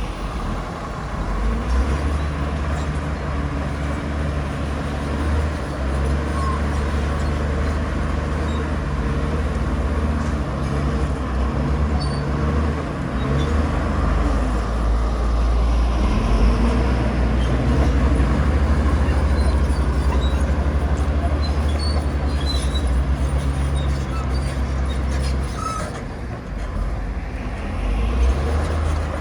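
Diesel engine of heavy earthmoving machinery running steadily with a deep drone. It eases briefly a few seconds before the end, then picks up again.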